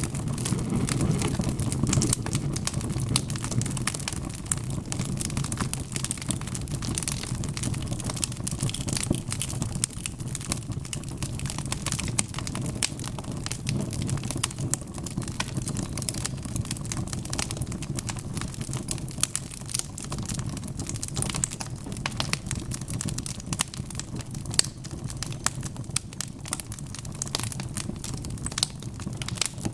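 Wood fire crackling: many small, sharp pops and snaps, irregular and frequent, over a steady low rumble of burning logs.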